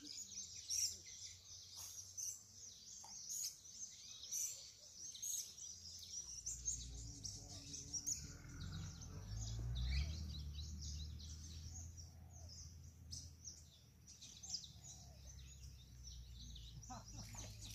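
Small birds chirping, many short high calls, with a low rumble swelling up from about six seconds in.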